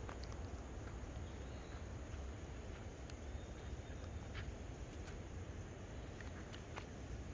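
Outdoor natural ambience: a steady low rumble of wind on the microphone, with faint scattered clicks and a faint high insect or bird chirp.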